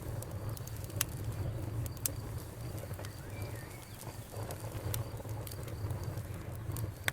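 Campfire crackling: sharp pops and snaps at irregular intervals over a steady low rumble of the burning fire, with a faint brief chirp a little over three seconds in.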